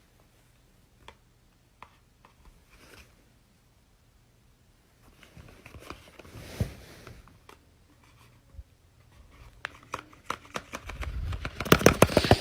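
Paper being handled: scattered soft rustles and small clicks, then a quick run of louder clicks and crinkling near the end.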